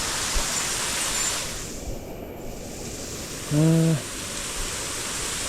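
Steady rushing of a waterfall on a mountain stream, briefly dulled just after two seconds in, with a short voiced sound from a person about three and a half seconds in.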